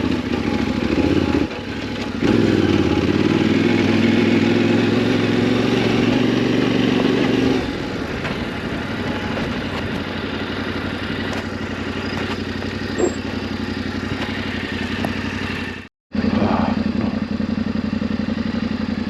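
Yamaha Ténéré 700's parallel-twin engine running with the bike under way, loud for the first several seconds, then easing to a lower level. The sound cuts out for a moment near the end, then the engine is heard again.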